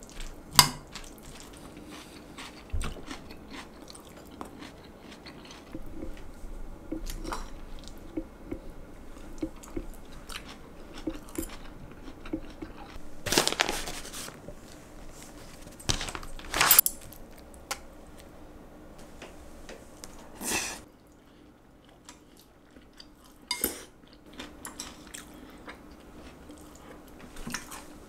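Close-up eating sounds: crunchy salad being chewed, with chopsticks clicking and scraping against a ceramic bowl. A few louder crunches come about halfway through.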